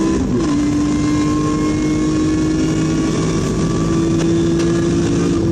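BMW E46 M3's S54 straight-six heard from inside the cabin: its revs drop sharply about a third of a second in, then climb steadily as the car pulls through the gear.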